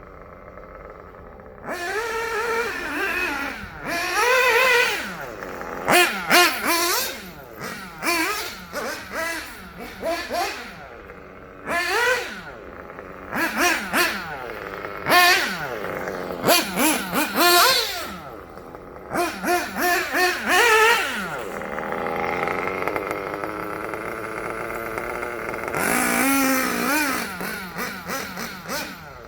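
Kyosho Inferno Neo 2.0 1/8-scale nitro buggy's engine, breathing through a Dynamite 053 tuned pipe. It revs up and down in repeated throttle bursts, with a steadier stretch a little past the middle before it revs again.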